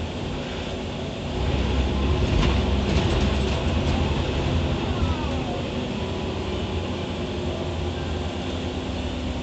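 Scania CN94UB OmniCity city bus heard from inside while driving: a steady low engine and drivetrain rumble that grows louder a little over a second in, as under acceleration. A brief falling whine comes about five seconds in.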